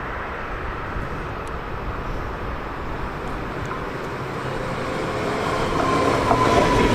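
A train approaching the platform, its noise growing louder over the last few seconds, with a steady high whine setting in about five seconds in.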